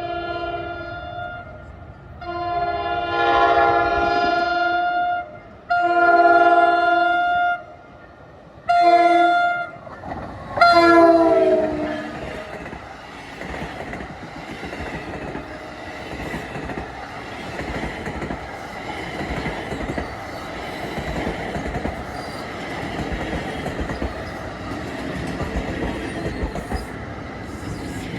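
Electric locomotive's air horn sounding the grade-crossing signal: after the tail of a first blast come two long blasts, a short one and a final long one that drops in pitch as the locomotive passes. Then the train rolls past with a steady rumble and the click of wheels over rail joints.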